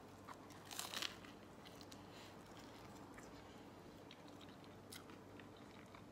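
A bite into a meatball sub roll, with a short crunch about a second in, followed by faint chewing.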